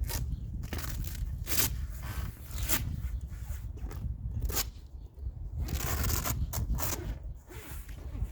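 Scraping, rustling and tearing of a Jeep Wrangler LJ's fabric soft top and its fittings being unfastened and pulled off by hand. There are irregular sharp scrapes and clicks, a longer tearing stretch about six seconds in, and a steady low rumble underneath.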